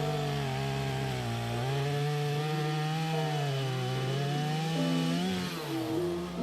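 Gas chainsaw running at high revs, cutting through a wooden telegraph pole. The engine note wavers under load and falls away near the end.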